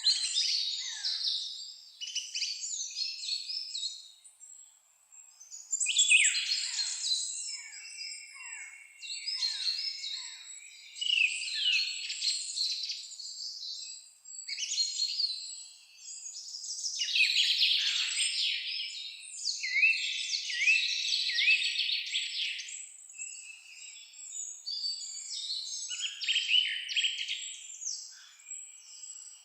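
Several songbirds singing and chirping at once in a forest dawn-chorus style, with overlapping high trills, warbles and quick repeated notes.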